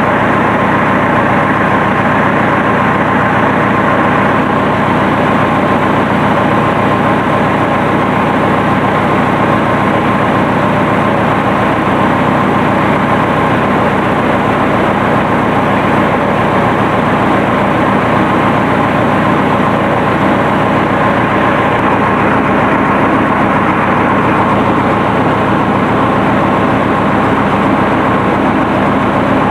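1964 Massey Ferguson Super 90 diesel tractor engine running steadily at idle.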